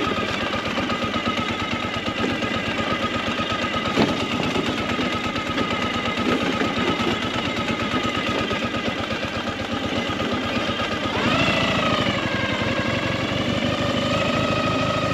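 Motorcycle engine running under way with a rapid, even pulsing beat; about eleven seconds in it revs up and then holds the higher speed.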